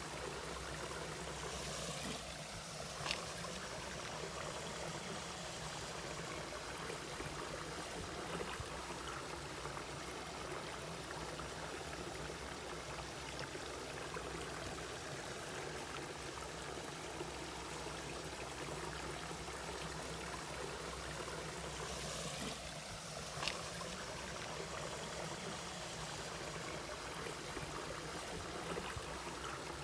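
Mountain valley stream flowing and babbling steadily over rocks, with two brief sharp ticks, one a few seconds in and one about three quarters of the way through.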